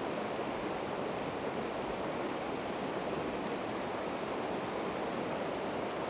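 Steady rushing of a river, with a few faint pops and ticks from split evergreen wood crackling in a campfire.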